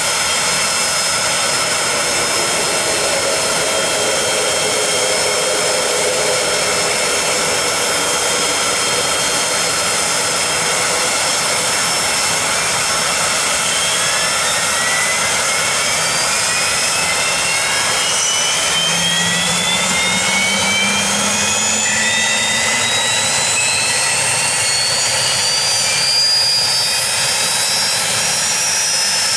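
Pilatus PC-24 business jet's Williams FJ44 turbofan engine starting: a steady jet rush, with a high whine that climbs in pitch from about halfway through as the engine spools up.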